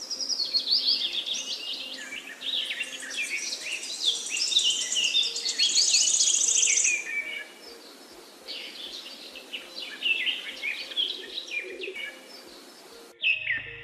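Several birds singing: a busy chorus of chirps, whistles and trills, with a fast high trill about six to seven seconds in. Near the end the background changes abruptly and a low steady hum comes in.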